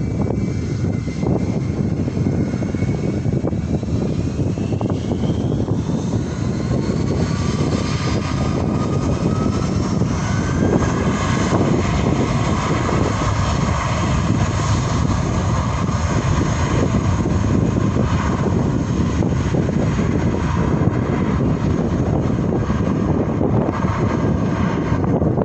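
Airliner engines running loud and steady, with a whine that rises in pitch over the first ten seconds or so and then holds.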